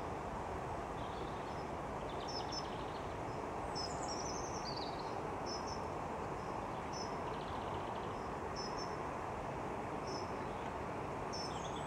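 Steady outdoor background rush with a small bird chirping, short high double notes repeating about once a second, and one falling note about four seconds in.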